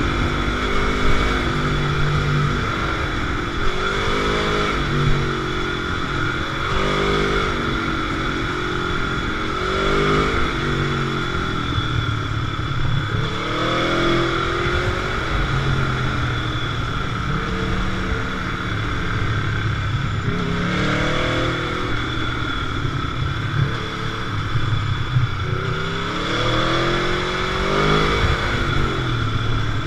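Motorcycle engine repeatedly accelerating and easing off, its pitch climbing and falling every few seconds as it rides along.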